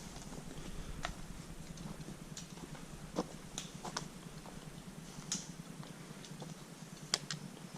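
Faint, irregular light clicks and taps, about eight of them spread unevenly over a quiet, steady background.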